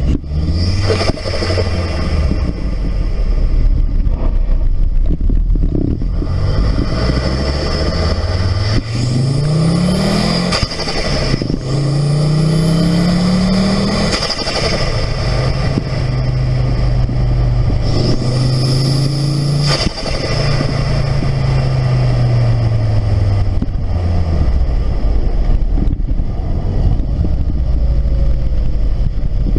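Ford 2.5-litre turbocharged five-cylinder engine accelerating hard twice, its note climbing with a rising turbo whistle, then dropping sharply with a short whoosh as the throttle closes: the Turbosmart recirculating bypass valve venting boost back into the cold air intake. It then holds a steady note and winds down.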